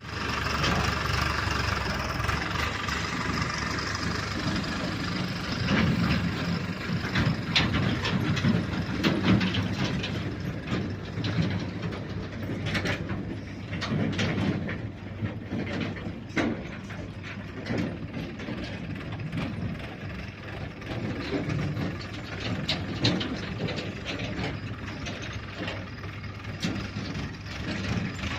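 Tractor engine running steadily, with mechanical rattling and clatter over the engine note.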